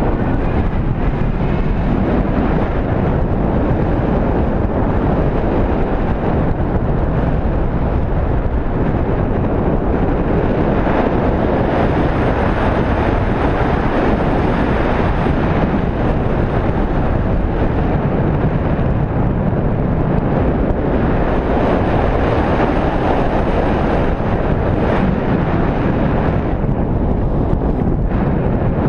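Steady, loud rush of airflow buffeting the microphone during paraglider flight.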